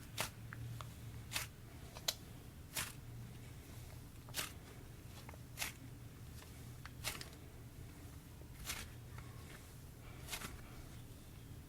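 Slime with sprinkles mixed in being squeezed and kneaded by hand, giving a series of sharp little pops and snaps about every second or so. The slime is a little bit dry.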